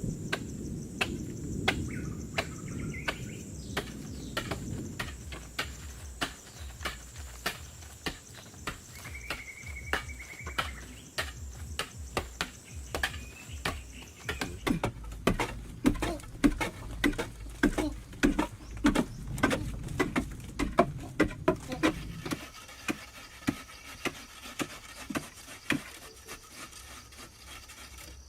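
A long run of sharp knocks, about two a second, as something is struck over and over, thicker and louder in the middle stretch. Insects trill steadily behind it until about halfway.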